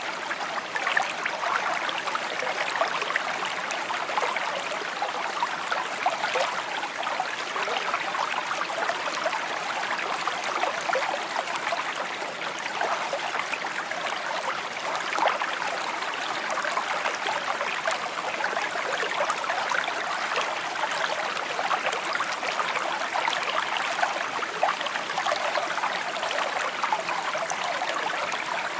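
A shallow stream babbling and trickling over stones, a steady bright rush of water with many small splashes and gurgles.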